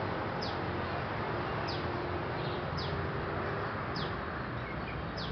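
A bird repeating a short, high call that falls in pitch, about once a second, over steady outdoor background noise.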